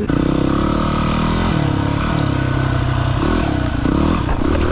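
Single-cylinder enduro motorcycle engine running under load while riding a trail, its pitch rising and falling with the throttle and dropping about a second and a half in.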